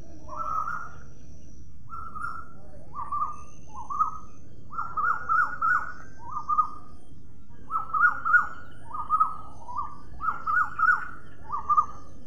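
A bird calling: short, clear notes repeated again and again, often in quick runs of two to four, over a faint steady background hiss.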